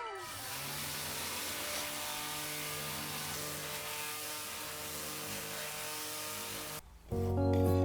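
Steady rushing noise with a faint low hum, like a motor or traffic; acoustic guitar music begins near the end.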